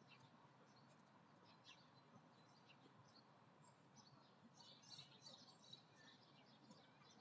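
Faint birdsong: short high chirps from small birds in the trees, busiest a little past the middle, over a quiet steady low background hum.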